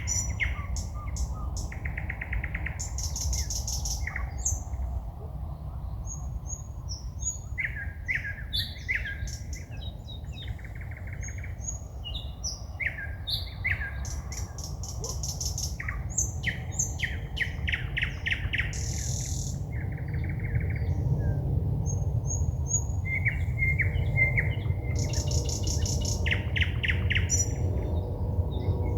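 Forest songbirds singing at night: a long string of varied phrases of rapid clicking trills, short clear whistles and rattles, each a second or two long with short pauses between, over a steady low rumble.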